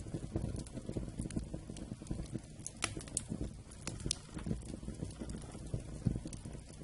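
Wood campfire burning, with a dense, irregular low crackle and a few sharp, bright snaps around the middle.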